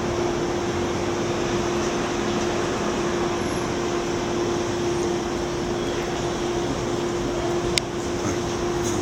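New York City subway train (M line) giving a steady hum and rush with one constant tone through it; a single sharp click comes near the end.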